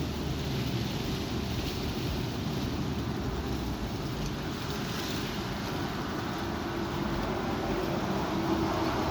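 Strong wind rushing and buffeting the microphone: a steady rumble and hiss with no breaks. A faint steady hum comes in over the last few seconds.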